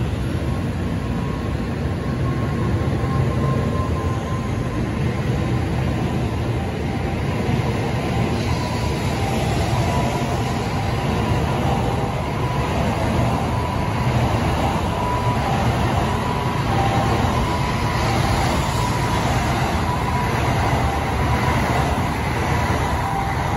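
N700A Shinkansen train pulling out of the station and running past the platform: a steady loud rumble of wheels and running gear with a thin steady whine.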